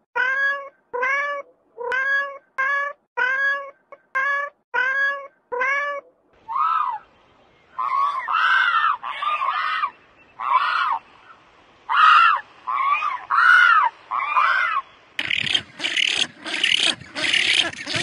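A cat meowing over and over in short, evenly spaced meows, about two a second, for the first six seconds. Then rougher, irregular animal calls follow, and from about fifteen seconds in a dense, loud run of noisy calls.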